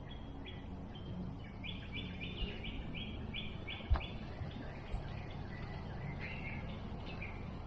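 A bird calling in runs of short, high repeated notes, about two a second, pausing briefly before a second run near the end. A single sharp click about four seconds in, over steady low outdoor rumble.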